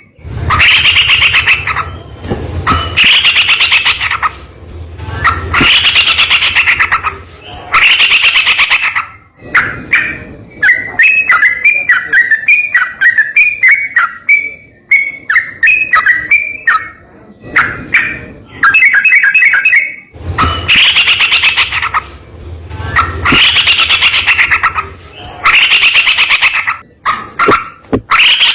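Yellow-vented bulbul (trucukan) singing loudly in a harsh, rapid rolling song. Phrases of about a second repeat every two seconds or so, and for a stretch in the middle they give way to a quick run of short falling notes.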